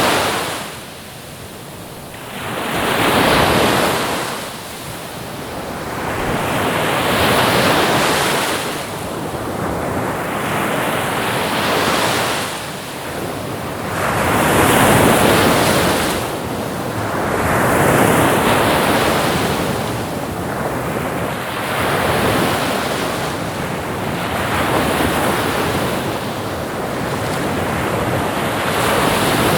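Ocean surf: waves breaking and washing in, a fresh swell of rushing water every three to four seconds.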